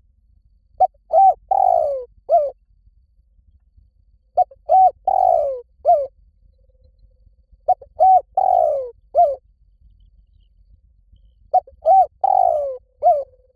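Spotted dove singing its cooing song four times, about every three and a half seconds. Each phrase is two quick coos, a longer falling croo and a short final note.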